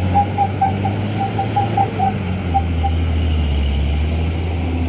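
Heavy truck diesel engine running steadily, dropping to a lower pitch about halfway through. A string of short high chirps sounds over it in the first few seconds.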